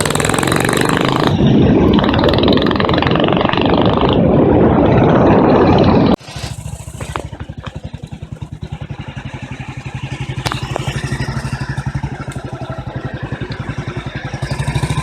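1937 BSA M20's single-cylinder side-valve engine running as the motorcycle rides, loud and pulsing, then about six seconds in the sound drops abruptly to a quieter, even beat of the engine at low revs.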